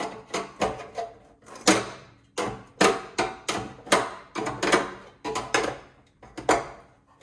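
Irregular metal knocks and scrapes, about a dozen, as the pressed-steel tabs and crimped edges of a gas instant water heater's housing are bent over and worked loose with a hand tool.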